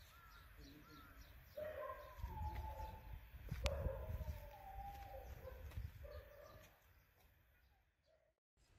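Faint birdsong: short high chirps, then longer, lower cooing calls that glide in pitch, over an uneven low rumble. A single sharp click comes about three and a half seconds in.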